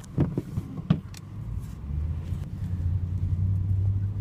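Car engine and road noise inside a moving vehicle's cabin: a steady low rumble that grows louder from about two seconds in, with a few short knocks in the first second.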